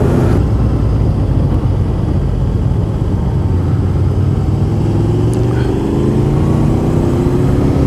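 Motorcycle engine running under way, its note climbing steadily from about five seconds in as the bike accelerates.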